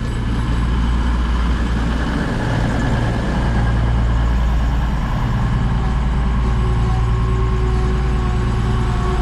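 Class 220 Voyager and Class 221 Super Voyager diesel-electric units idling at a platform, their underfloor Cummins diesel engines giving a loud, steady low drone.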